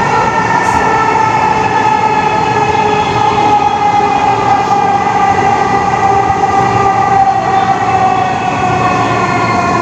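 Dhaka MRT Line 6 electric metro train running, heard from inside the car: a steady rumble with a stack of whining motor tones that slowly fall in pitch as the train slows for the next station.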